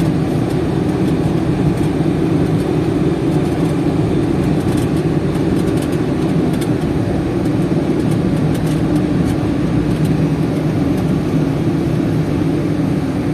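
Steady engine and road noise of a vehicle driving at an even pace.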